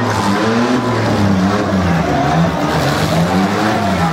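Demolition derby cars' engines revving hard, the pitch rising and falling again and again over a steady low engine drone, as a pickup spins its wheels.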